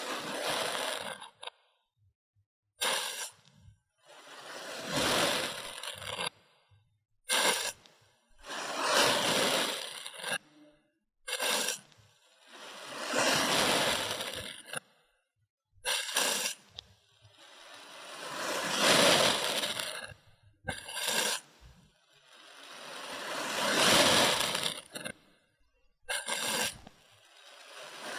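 Kinetic sand being cut and crushed, heard in short edited clips: a brief crunch, then a longer gritty crumbling that swells and fades. This repeats about every four to five seconds, with sudden cuts to silence between.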